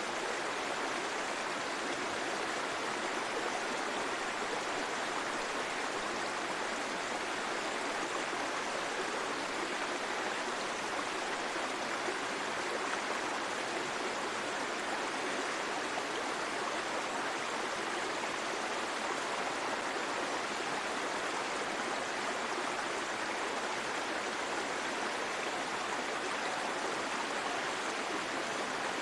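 Steady rushing water: an even, unbroken hiss of flowing or falling water.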